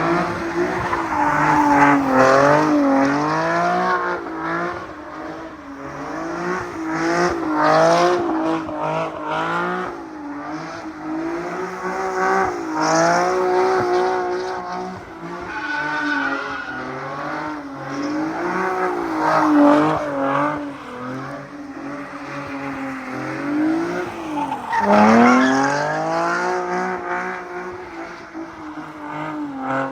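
Car engine revving high and dropping back again and again, with tyres squealing.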